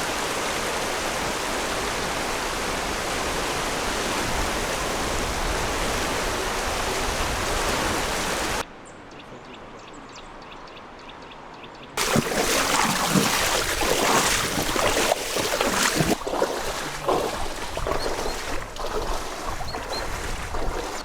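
Steady rushing of flowing floodwater. It cuts off suddenly about nine seconds in to a much quieter stretch, and from about twelve seconds gives way to louder, uneven noise with sharp knocks.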